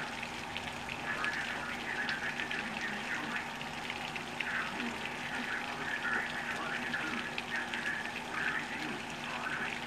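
Heavy hurricane rain pouring steadily, with many small ticks of close drops splashing. A faint, higher sound comes and goes above the rain.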